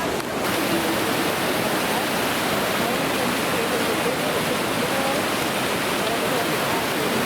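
Waterfall rushing: a steady, fairly loud rush of falling water, with faint voices in the background.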